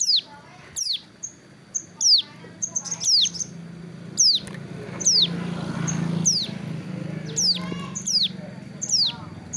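Ciblek gunung, a prinia, calling repeatedly: sharp high notes that sweep downward, about one a second, with short high chips between them. A low steady hum underneath swells around the middle.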